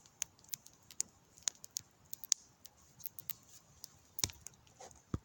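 Campfire of wet firewood burning, crackling with irregular sharp pops and snaps over a faint hiss, with a louder snap about four seconds in.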